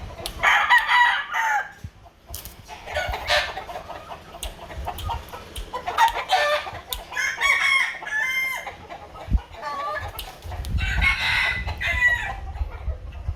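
Chickens calling: a series of about five crowing and clucking calls, each a second or so long, with pauses between them.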